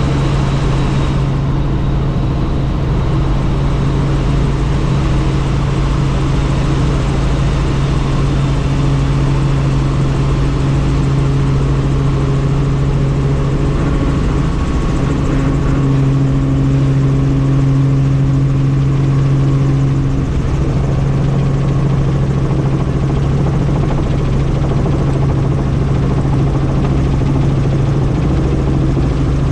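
Helicopter in flight: steady engine and rotor noise with a strong low hum that swells slightly about midway.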